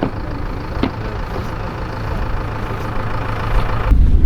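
A vehicle engine running steadily. About four seconds in, the sound turns to a deeper, louder rumble.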